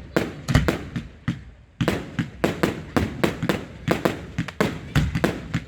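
Fireworks going off in a rapid, irregular run of bangs, several a second, with a brief lull about a second and a half in.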